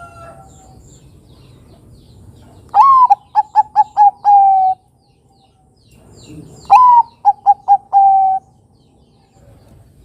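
Bangkok-type zebra dove (perkutut) singing two cooing phrases, each a rising opening note, a quick run of short notes and a long held final note.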